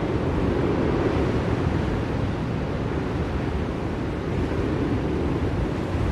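Blizzard wind: a steady, dense rushing noise, heaviest in the low end, that swells and eases a little.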